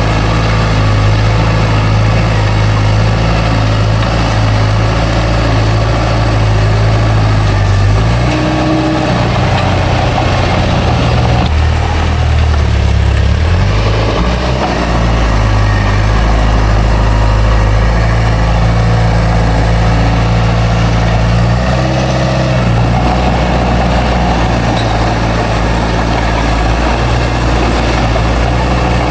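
Heavy diesel engine of a bulldozer running steadily at work. Its note shifts about eight seconds in and again a little past twenty seconds, as the engine speed and load change.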